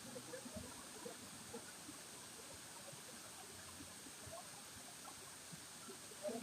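Faint, steady running water: an even hiss with small scattered gurgles and splashes.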